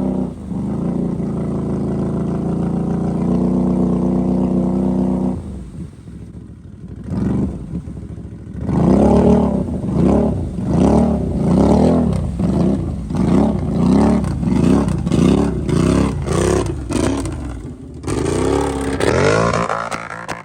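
Off-road vehicle engine held at steady high revs for about five seconds, then easing off. It is then revved in quick, even throttle blips, a little more than one a second, for about ten seconds, with another surge near the end.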